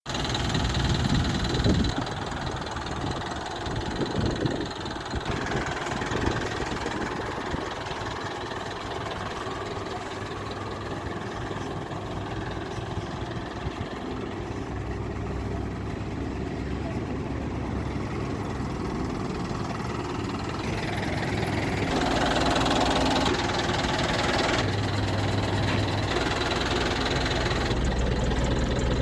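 Diesel engine of a 2013 Eicher 11.10 cargo truck idling steadily, with a few low thumps in the first few seconds; it grows louder about 21 seconds in.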